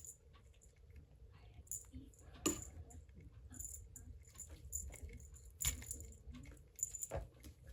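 Cats playing at a scratching post/cat tree: faint, intermittent light jingling with scattered soft clicks and a few sharper knocks.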